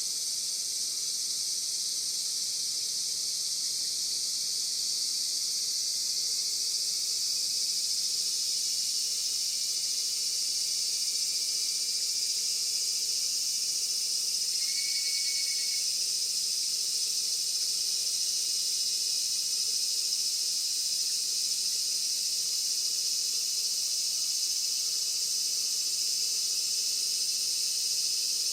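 Steady insect chorus: a dense, high-pitched hiss that holds without a break. A brief faint note sounds about halfway through.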